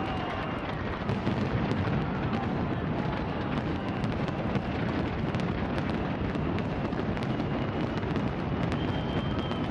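Large fireworks display: a steady mass of overlapping bangs and crackles from many shells bursting at once, with a deep rumble underneath.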